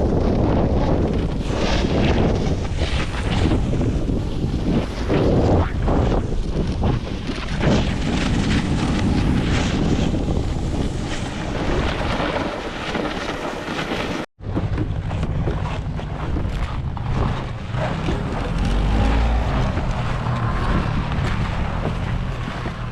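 Strong blizzard wind buffeting the microphone in heavy, uneven gusts. The sound cuts out for an instant about two-thirds of the way through, then carries on.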